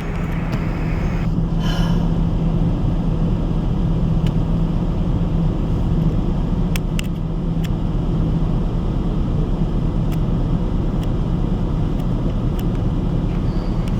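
Steady engine rumble with a constant low hum, beginning suddenly.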